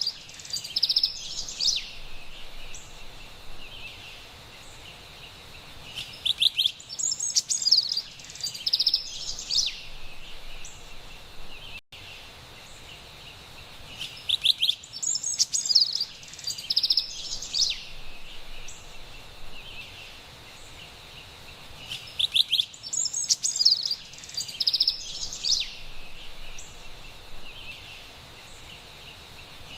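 Carolina wren singing, with a burst of bright, rapid song phrases about every eight seconds over a faint steady high-pitched background hiss. The sound cuts out for an instant about twelve seconds in.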